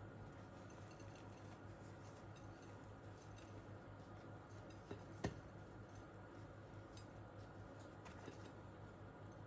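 Near silence: quiet room tone with a steady low hum, faint scattered clicks, and one sharper click a little past halfway.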